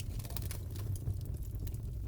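Fireplace crackling: irregular sharp pops and snaps over a low, steady rumble.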